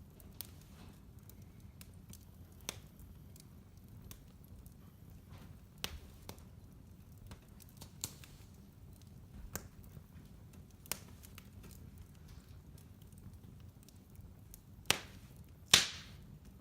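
Fireplace wood fire crackling: scattered sharp pops and snaps over a low steady rumble, with two louder pops near the end.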